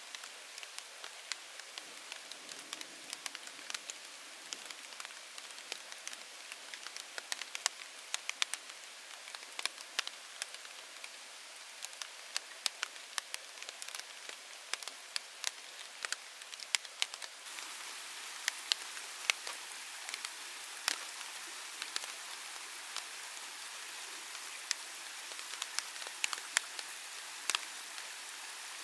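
Rain falling: a steady hiss with many individual drops ticking sharply and irregularly. The hiss gets a little louder about two-thirds of the way through.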